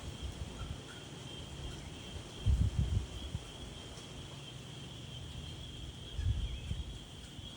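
Insects chirring in a steady, unbroken high drone, with low gusts of wind rumbling about two and a half seconds in and again near six seconds.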